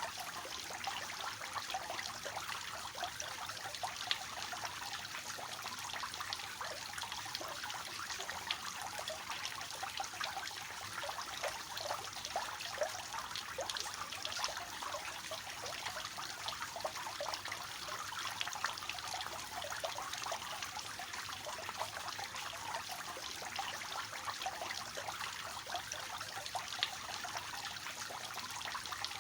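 Water falling and splashing from a three-tiered cascading fountain: a steady trickling and splashing with many small drips.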